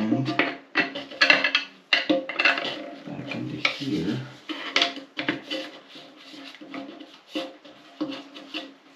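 Hands working a plastic toilet fill-valve float onto its rod: irregular clicks, taps and clatter of hard plastic parts.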